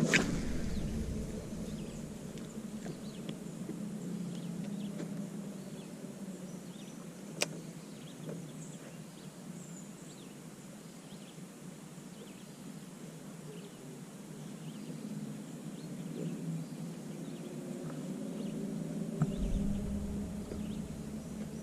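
Outdoor lake ambience: a steady low hum, with scattered faint bird chirps and a single sharp click about seven seconds in.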